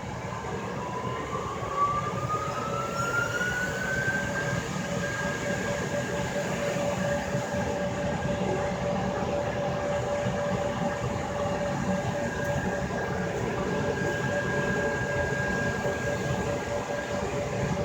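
Belanger car wash dryer blowers spinning up, with a whine that rises over the first few seconds, then running at a steady high pitch over a loud rush of air.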